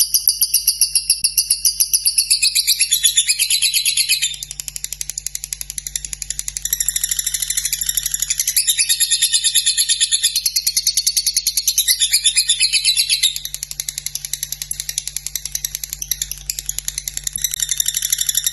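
Lovebird singing a long, unbroken 'ngekek' chatter: a fast, steady string of sharp, high notes, several a second, growing softer twice and picking up again.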